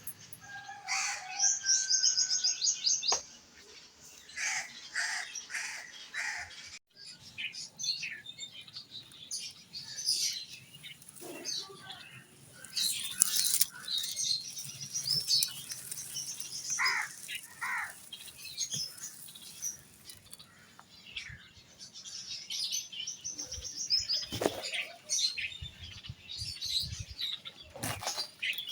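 Small birds chirping and calling: short chirps and quick trilled runs of high notes, coming and going throughout, with a few brief flutters or rustles.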